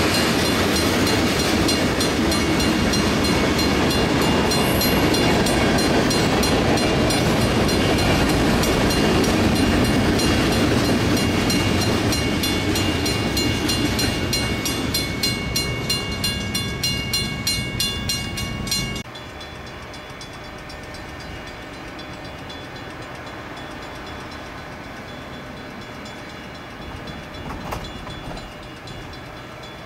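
A freight train of covered hopper cars rolling past a grade crossing: wheels rumbling and clacking on the rails, with a crossing bell ringing steadily over it. The sound fades as the last cars pass and then cuts off sharply about two-thirds of the way in, leaving faint steady background noise.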